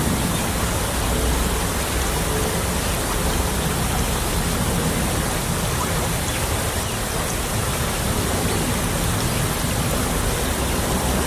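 Small stream babbling and trickling over its bed, a steady, even rush of water.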